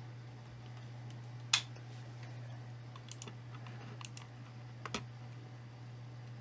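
A few sharp, irregular clicks and light taps of small hard objects, the loudest about a second and a half in, over a steady low hum.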